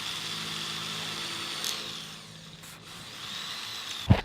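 Power drill running steadily, slowing off about two seconds in, then speeding up again. A sharp knock comes near the end.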